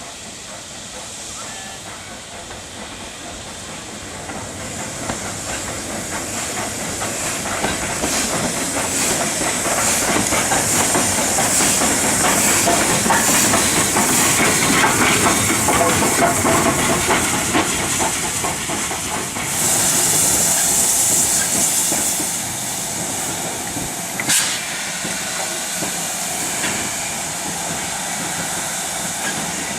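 Steam locomotive and its train moving past, growing louder over several seconds and then easing off, with steam hissing throughout. About twenty seconds in a louder hiss of steam lasts a couple of seconds, followed shortly by a single sharp click.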